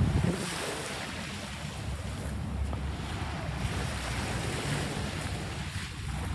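Sea waves washing and surging, with wind buffeting the microphone in a low rumble.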